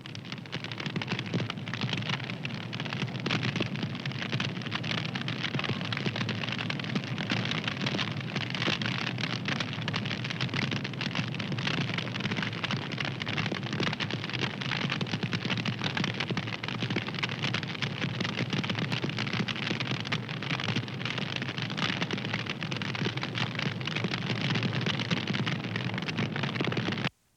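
Wood fire crackling steadily, a dense run of small snaps and pops that goes on without a break.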